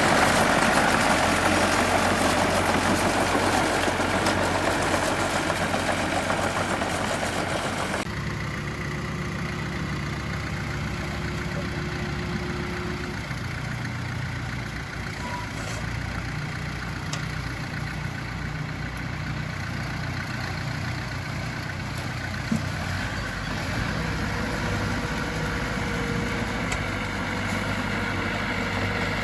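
Diesel engine of heavy earthmoving equipment running. For the first several seconds it is loud and dense, as if working under load. After a sudden cut it settles to a quieter, steady idle.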